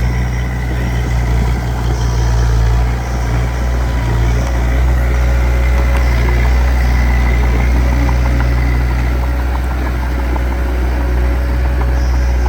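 Diesel engine of a small bulldozer or dump truck running steadily with a deep, even rumble, and faint light clicks over it in the middle stretch.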